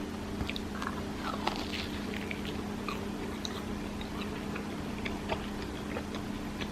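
Eating sounds: scattered light clicks and chewing over a steady low background hum.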